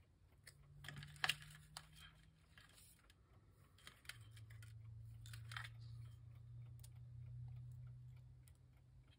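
Faint handling of paper and crafting pieces: scattered light clicks, taps and short rustles over a low steady hum.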